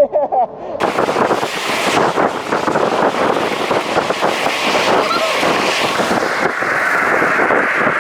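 Wind buffeting an action camera's microphone on a moving bicycle: a rough rushing noise full of crackles that sets in suddenly about a second in.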